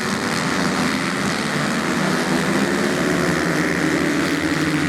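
Motorcycle engines running steadily, with one engine's pitch rising about four seconds in.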